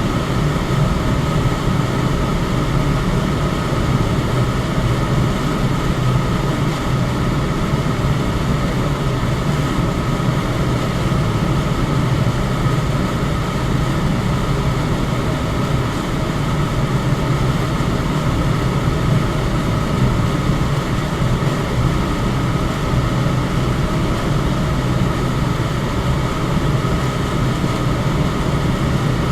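Electric fan running steadily: an even rushing of air with a low hum and no change through the whole stretch.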